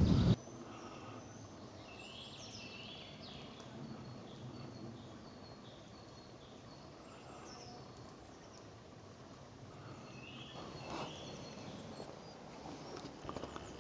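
Small woodland birds singing and calling in short chirping phrases, one cluster about two seconds in and another around eleven seconds, over a quiet woodland background. A loud rushing noise cuts off abruptly just after the start, and a few light crackles come near the end.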